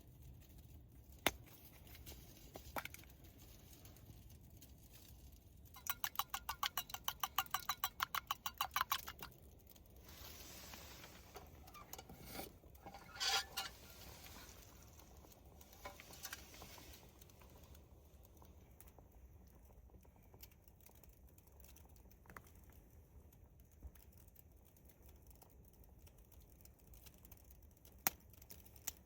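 Small handling sounds: a few sharp clicks, and about six seconds in a three-second run of rapid even ticks, about ten a second, over a low steady hum.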